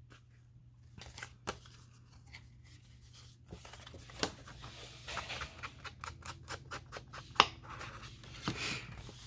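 Scissors cutting paper in a run of short snips and clicks, thickest about five to seven seconds in.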